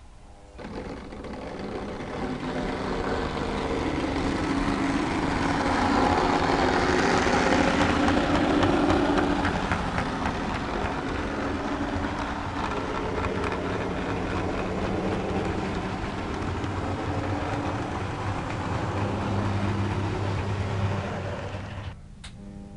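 OO gauge model diesel train running on the track: its motor hum and wheels on the rails, growing louder over the first few seconds as it comes close, then running steadily before cutting off suddenly near the end.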